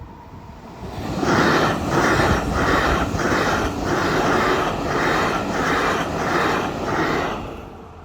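A train passing at speed: a rush of wheel and air noise builds about a second in, pulses evenly about every 0.6 s as the cars go by, and dies away near the end.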